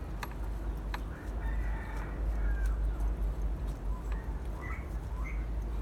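Chickens clucking faintly, a few short calls, over a steady low rumble. A few sharp metallic clicks from hand tools come in the first second.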